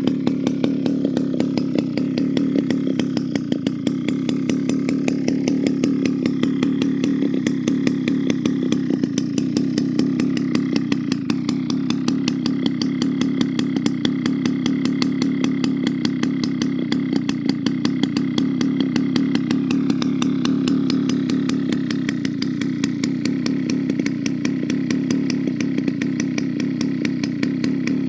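Dolmar CT two-stroke chainsaw running steadily after a full rebuild, holding an even speed throughout.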